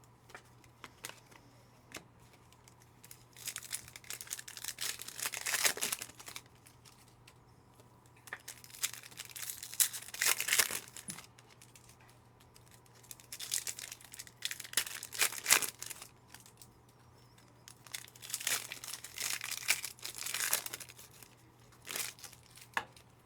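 Foil wrappers of Panini Optic football card packs being torn open and crinkled by hand, in four bouts about five seconds apart.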